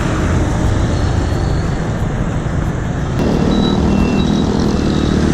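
Road traffic noise as a steady, loud rumble, joined about three seconds in by the steady hum of a motor vehicle's engine close by.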